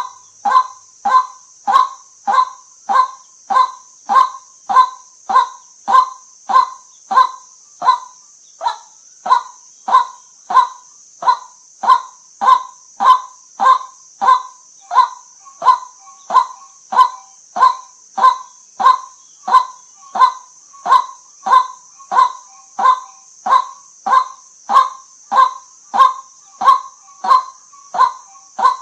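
White-breasted waterhen calling: one short call repeated at an even, steady pace of about three every two seconds, over a steady high hiss.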